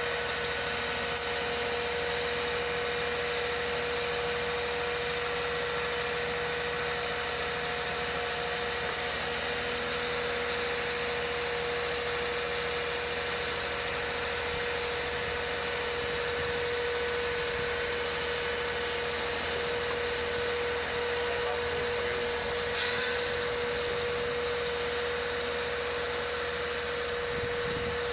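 Steady hum over a constant hiss, with one unchanging mid-pitched tone.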